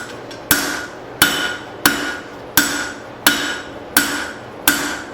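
Heavy hand hammer striking leaf-spring steel on an anvil in a steady forging rhythm, seven blows about 0.7 s apart, each with a short metallic ring.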